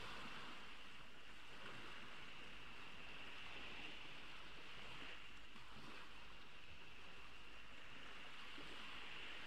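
Small ocean waves washing gently onto the beach in a steady, soft surf wash, with a constant faint high-pitched hiss above it.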